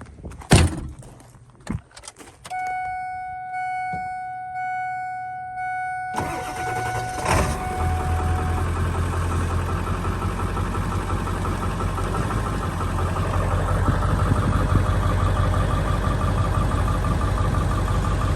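A few knocks, then an electronic chime pulsing steadily for a few seconds, before the truck's starter cranks briefly and the engine catches about seven seconds in and settles into a steady idle.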